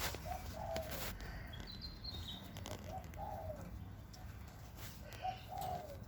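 A bird gives a low, two-part call three times, about two and a half seconds apart, with a faint higher chirp about two seconds in.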